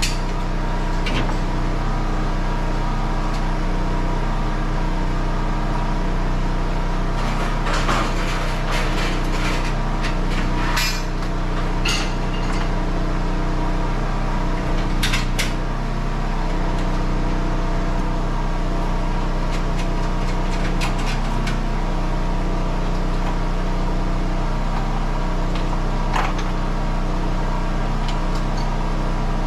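A steady mechanical hum from a running motor or engine, with scattered knocks and clanks of tools and hardware. The knocks come in a cluster from about a quarter to halfway through, with one more near the end.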